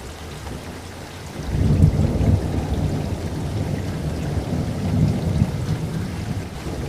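Steady rain with thunder: a deep rolling rumble swells about a second and a half in and keeps rumbling under the rain.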